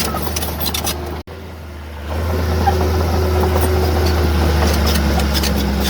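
Heavy diesel engine of earthmoving equipment running steadily, with a low hum and some metallic clatter. The sound breaks off abruptly about a second in and comes back louder from about two seconds in.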